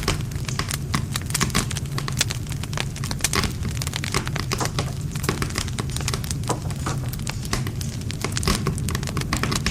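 Wood fire burning steadily: a constant low rumble of flame with dense, irregular crackles and pops from the burning wood.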